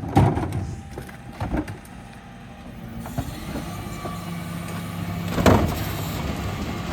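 Refuse truck's diesel engine running, its hum rising and steadying about four seconds in, with a few sharp knocks and a louder clunk about five and a half seconds in.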